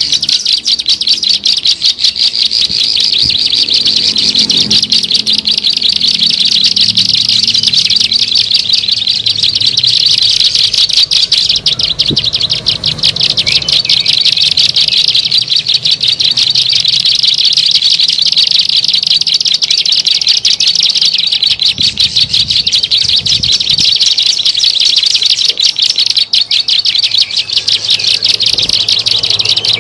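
Plain prinia (ciblek sawah) calling without a break, a fast, continuous run of high chirping notes, as a recorded lure call for attracting the bird.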